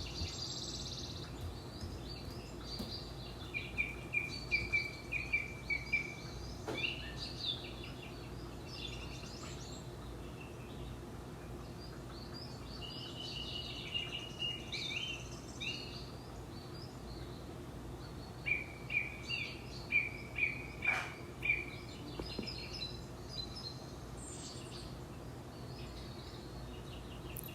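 Wild birds chirping and calling, including two runs of about six quick repeated chirps, over a steady low hum.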